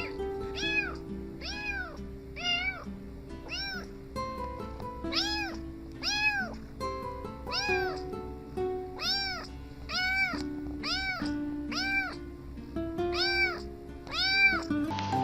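Kittens meowing over and over, short high mews that rise and fall, about two a second, over background music.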